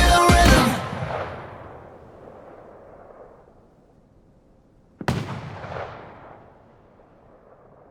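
The song's final notes stop and ring out for a moment. About five seconds in comes a single firework bang, which fades away over about two seconds.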